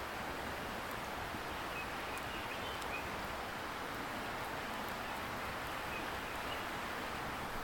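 Steady rushing hiss of a distant river, with a wood campfire crackling faintly now and then on top.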